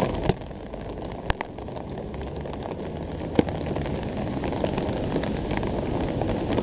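Electric commuter train approaching from a distance, a steady low rumble that slowly grows louder, with a few sharp clicks.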